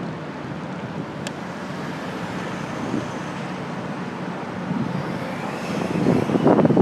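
Wind rushing over a handlebar-mounted iPhone 4's microphone on a moving bicycle, mixed with road and traffic noise. The rush grows gustier and louder near the end, and there is a single sharp click about a second in.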